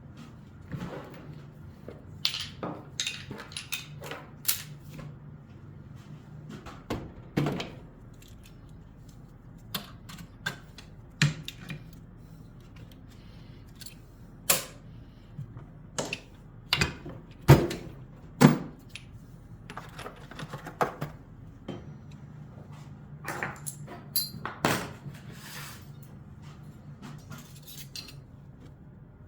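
Small metal parts and tools clinking and knocking as they are handled: irregular sharp clicks, a few louder knocks just past the middle, over a faint low hum.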